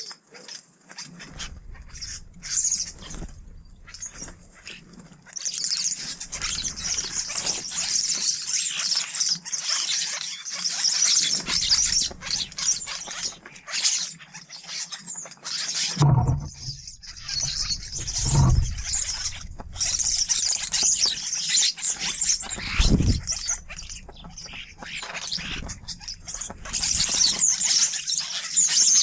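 Small garden birds chattering and chirping busily at a feeder, with a few low thumps in the second half.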